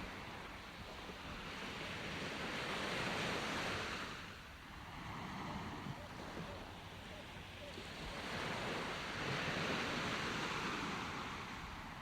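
Sea waves breaking and washing on a shore, the surf swelling twice, with a lull between the two swells.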